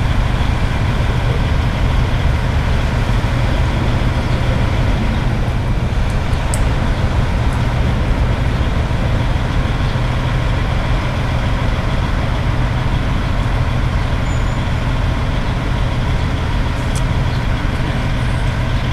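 Vehicle engine idling with a steady low rumble, with two brief clicks partway through.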